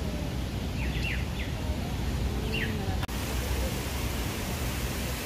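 Small birds chirping a few short times in the first half, over steady outdoor noise with a low rumble; after an edit about three seconds in, only the steady noise remains.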